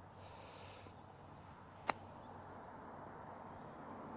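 A golf club striking the ball once, a single sharp click about two seconds in, over faint quiet outdoor ambience.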